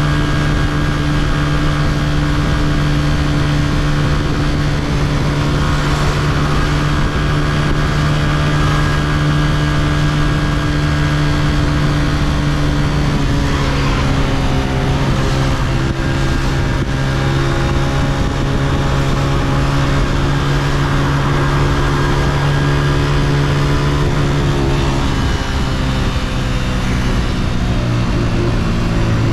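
Honda CG125's single-cylinder four-stroke engine running steadily while riding, with wind noise on the microphone. The engine note drops a little about halfway through, then dips again near the end before picking back up.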